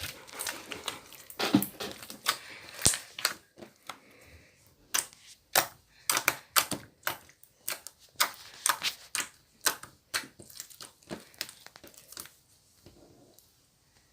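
Slime being squeezed and pressed by hand, giving an irregular run of sharp clicks and crackling pops that thins out near the end.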